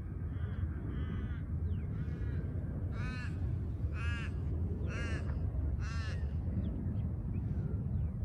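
A crow cawing: a run of four drawn-out caws about a second apart, starting about three seconds in, with fainter calls before them. A low, steady rumble runs underneath.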